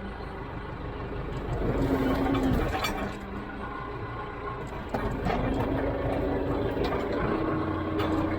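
Tractor engine running, its note rising and falling as the revs and load change: it swells about two seconds in, drops back, and picks up again from about five seconds on.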